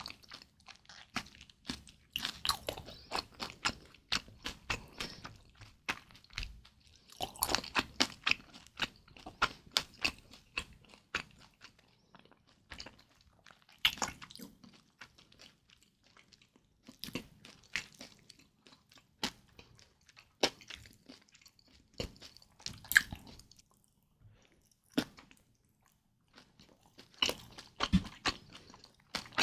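Close-miked eating of kimchi dumplings: bites and wet chewing with crisp crackles, coming in short bursts with brief pauses between them.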